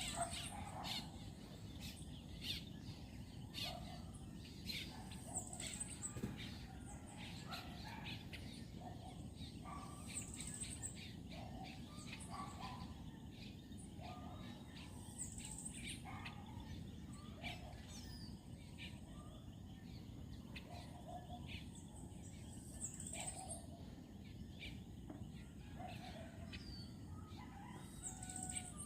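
Faint birds chirping in short repeated calls over a low, steady background noise.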